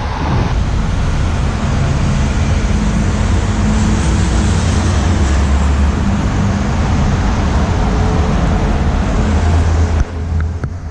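Steady vehicle road noise with wind rushing over the microphone and a low engine drone, as if riding a Honda Dash 125 motorcycle. It drops away suddenly about ten seconds in.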